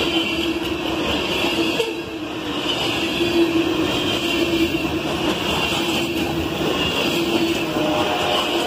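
Norfolk Southern freight train of covered hopper cars rolling past close by, the wheels on the rail making a loud, steady rumble and rattle with a steady hum underneath.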